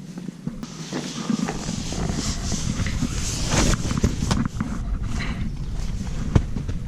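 Irregular rustling and scuffing with scattered sharp clicks, in the manner of footsteps and handling while moving about outdoors, starting about half a second in.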